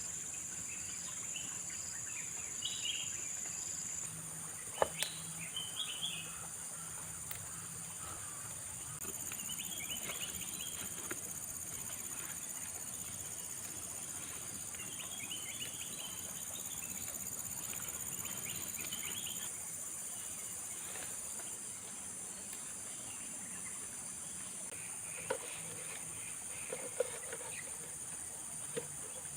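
Forest ambience: a steady, high-pitched chorus of insects such as crickets and cicadas, with scattered short bird chirps and a single sharp click about five seconds in.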